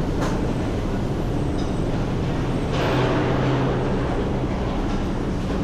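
Motorcycle engine running at a steady speed under a continuous rumble of road and wind noise, with a brief swell of hiss about three seconds in.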